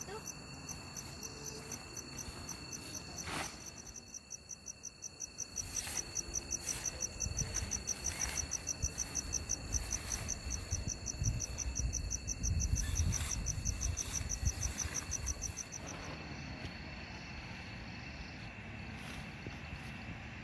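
Insects chirping in a fast, even pulse with a steady high ringing note, the pulsing stopping about 16 seconds in. A low rumble runs under the middle stretch, with a few short knocks.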